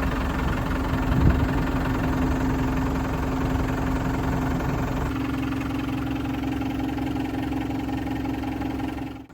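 Ford 555E backhoe's diesel engine idling steadily just after start-up, its note changing about halfway through; it stops abruptly near the end.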